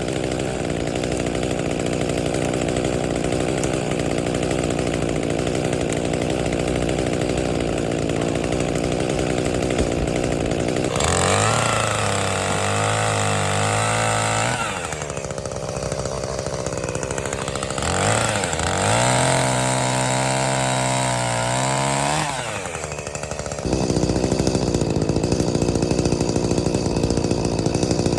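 Gas chainsaw running continuously while cutting wood. It revs up to a higher pitch twice, about eleven and eighteen seconds in, for three to four seconds each time, with the pitch wavering, then drops back.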